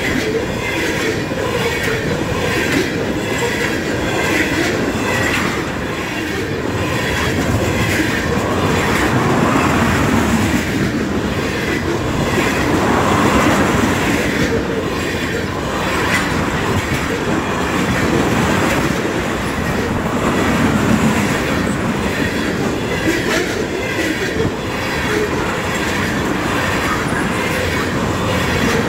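Ethanol tank cars of a freight train rolling past: a steady rumble of wheels on rail, with a rhythmic clickety-clack as wheel sets cross rail joints.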